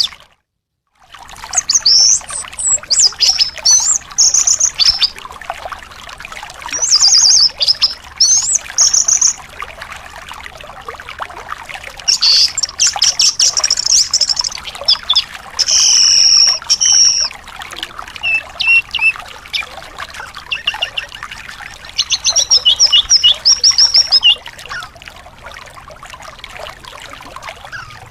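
Thrush song in repeated bright, rapid phrases over the steady trickle of running water, the kind of recording played to coax a silent caged anis thrush into singing. The sound drops out completely for about a second near the start.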